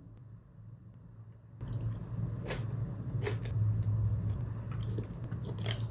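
A person chewing a mouthful of grilled chicken tikka close to the microphone, starting about a second and a half in, with a series of sharp mouth clicks as they chew.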